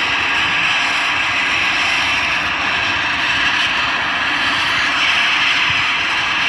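Jet airliner engines running: a steady, even hissing noise that neither rises nor falls.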